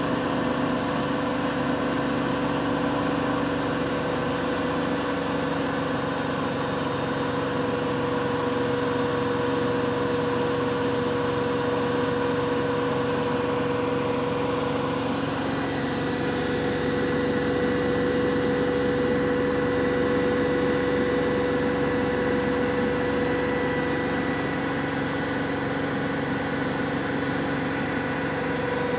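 Miele Novotronic W822 front-loading washing machine in its final spin, the drum turning at a steady high speed with a constant motor whine and hum over the rush of the drum. About halfway through the tones shift slightly and a faint higher whine joins in.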